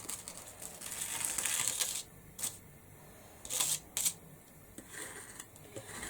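Spatula scraping excess black structure paste off a stencil, a soft scrape for about two seconds, then a few light clicks and taps.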